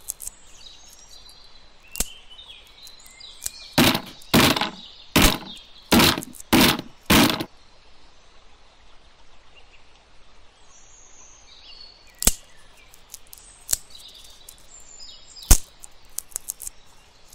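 A quick run of about seven sharp knocks a little past the middle, with a few single sharp clicks before and after, over faint bird chirps.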